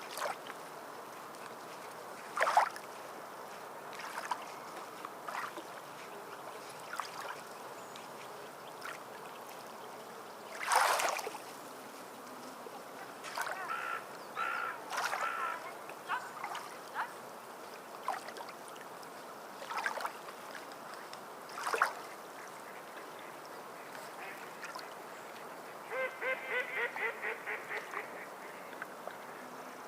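Waterfowl calling over a steady wash of water, with a rapid run of calls, about four a second, near the end and a shorter burst midway. Now and then the water gives a short splash.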